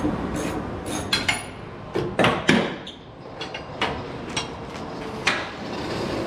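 Irregular sharp metallic clanks and knocks of tools and metal parts being handled, one with a brief ringing note about a second in, over a steady low shop rumble.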